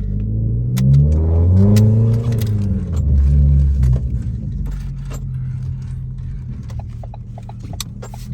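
Straight-piped exhaust of a 2016 Ford Focus SE, with no muffler or resonator, revving: its pitch climbs and falls back between about one and three seconds in, then it settles to a steady idle.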